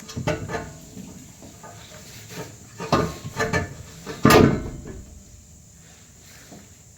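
Scattered knocks and clanks from a car exhaust muffler being handled and worked onto its rubber hanger, with the loudest knock a little past halfway.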